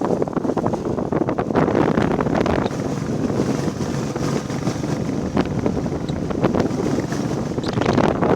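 Wind buffeting the microphone on a moving motorcycle, with a Royal Enfield Classic 350's single-cylinder engine running steadily underneath.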